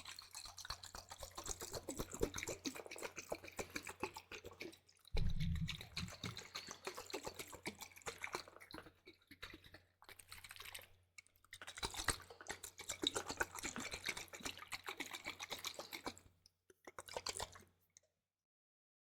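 Close-miked wet liquid ASMR sounds: dense crackling, squishing and dripping in stop-start patches, with a loud low thump about five seconds in. The sound stops abruptly near the end.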